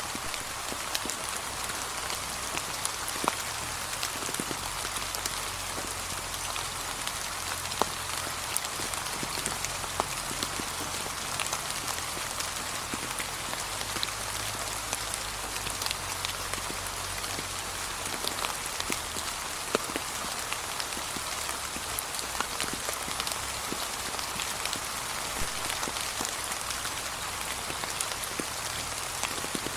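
Steady gentle rain falling on fallen leaves, with scattered louder individual drops ticking through.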